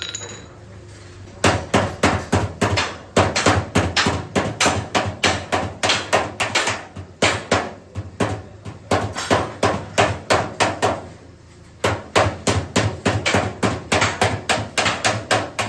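Hammer striking car body sheet metal in panel-beating work, in quick runs of about three to four blows a second with short pauses, the longest pause about eleven seconds in.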